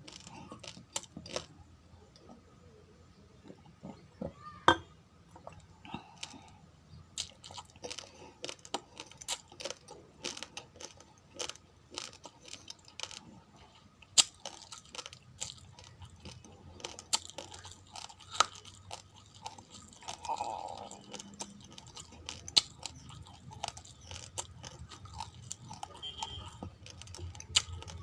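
Raw, uncooked rice grains being crunched and chewed: an irregular run of sharp cracks, several a second, with a few louder ones standing out.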